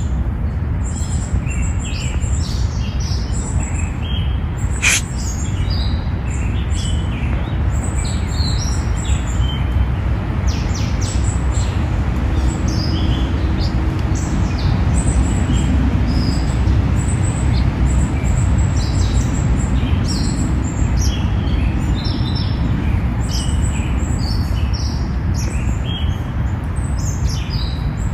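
Small birds chirping over and over in the tree canopy, many short high calls overlapping, over a steady low rumble.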